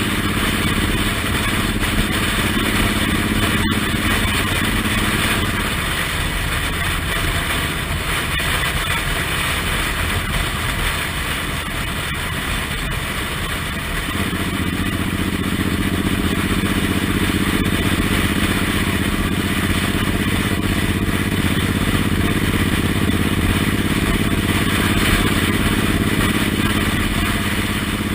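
Suzuki Intruder M1800R's V-twin engine running while riding, under a steady rush of wind. The engine note drops back for several seconds in the middle, then picks up again.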